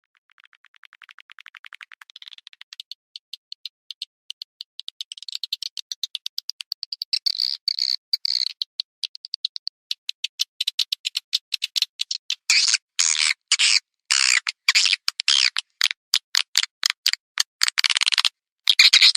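Recorded swiftlet calls from a swiftlet-house call track: a fast run of high clicks that builds steadily in loudness, then from about twelve seconds in loud twittering chirps in quick bursts with short gaps. This is the kind of sound swiftlet farmers play to draw the birds in to nest.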